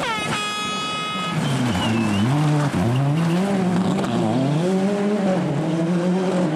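Rally car engine revving hard, its pitch rising and falling several times as the car brakes, shifts and accelerates through a corner, with tyre squeal. Near the start a high falling tone holds steady for about a second.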